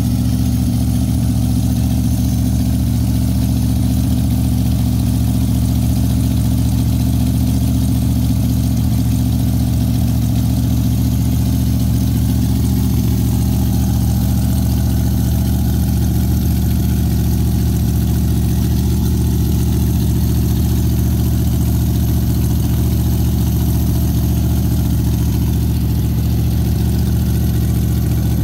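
A car engine idling, steady and even, with no revving.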